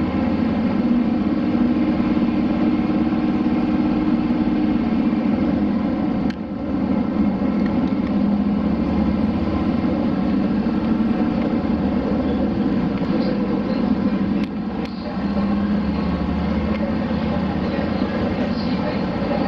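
Diesel railcar's engine running under way, heard from inside the car as a steady drone whose pitch drifts. The sound drops off briefly twice, about a third and three quarters of the way through.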